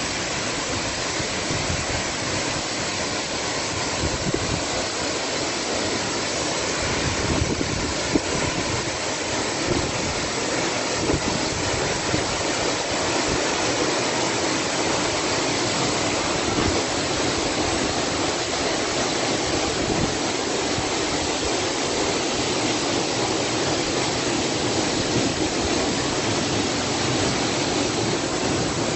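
Steady roar of a tall waterfall, its water crashing down and throwing up spray. It grows a little louder over the first several seconds as the listener moves closer.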